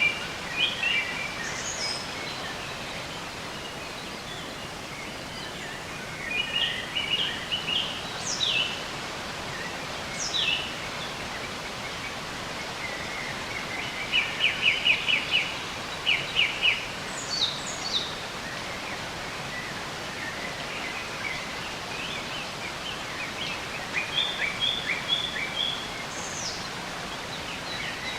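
Several songbirds calling and singing over a steady outdoor hiss of wind or distant water: bursts of quick repeated chirps and short high notes that sweep downward, in clusters with quieter gaps between.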